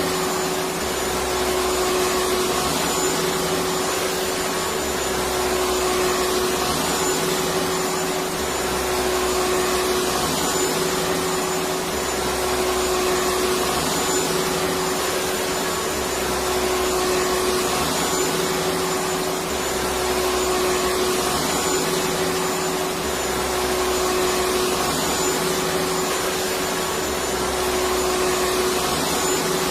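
Electric vacuum cleaner running steadily: an even rushing hiss over a constant hum, with a faint low throb that swells about every two seconds.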